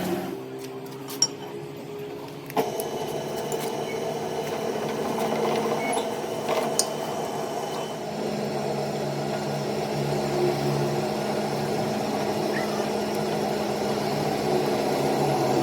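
A workshop machine's motor running steadily, starting sharply about two and a half seconds in, with a few clicks before it.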